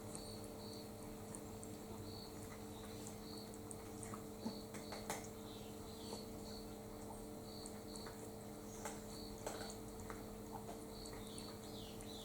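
Faint, repeated short high chirps of birds outside, with a few sharp clicks of cats crunching dry food, over a steady low hum.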